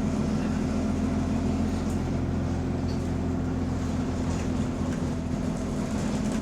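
A bus's diesel engine running steadily, heard from inside the bus, a low, even drone with a hum held at one pitch; the bus has an exhaust leak.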